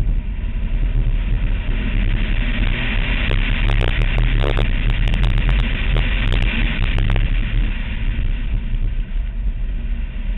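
Chevrolet Cobalt SS Turbo's turbocharged 2.0-litre four-cylinder driven hard through an autocross course, a steady engine and road drone heavy in the low end. A cluster of short clicks or rattles comes through a few seconds in.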